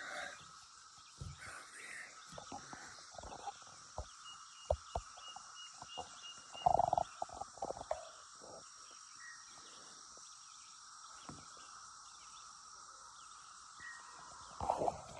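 Cicada chorus buzzing steadily in high, even bands, a sound strange enough to be called a freaky noise. Scattered short knocks or rustles run through it, with a louder burst about seven seconds in and another near the end.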